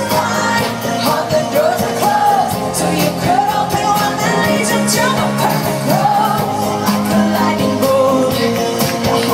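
Live pop-rock band music with a woman singing the lead over a steady drum beat.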